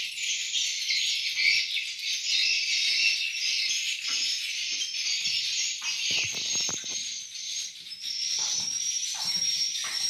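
Swiftlets chirping and twittering in a dense, continuous, high-pitched chorus, the kind of call heard in and around a swiftlet house.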